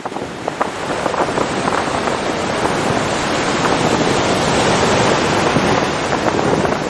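Ocean surf: waves breaking and washing in as a dense rush that builds to its loudest about midway, then eases slightly.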